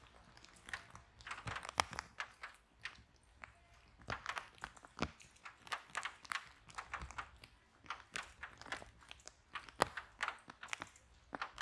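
Wood fire in a fireplace crackling: irregular sharp pops and snaps over a faint hiss, with a few louder cracks.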